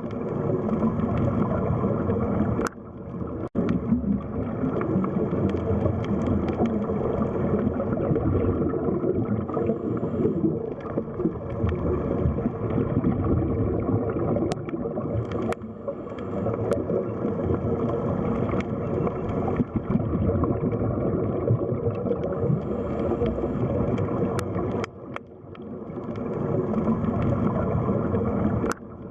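Underwater sea ambience: a steady wash of churning, gurgling water that dips briefly twice, with a few faint clicks.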